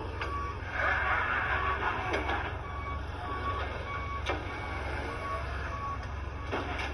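Vehicle reversing alarm beeping about twice a second over a steady low engine rumble, with a few sharp knocks.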